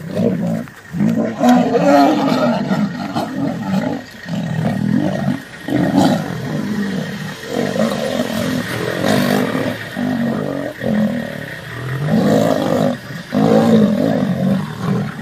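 Male lions fighting, growling and roaring loudly in rough bursts of one to two seconds, one after another with only brief breaks.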